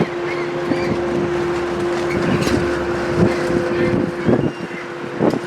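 A vehicle driving at highway speed: a steady drone of road and engine noise, with wind noise on the microphone and a few light knocks.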